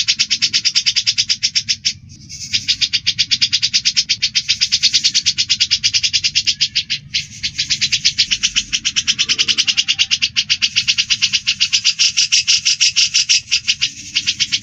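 Cucak jenggot (grey-cheeked bulbul) and Eurasian tree sparrow calling in a fight: a fast, steady chatter of sharp chirps, about ten a second, broken by two short pauses, about 2 and 7 seconds in.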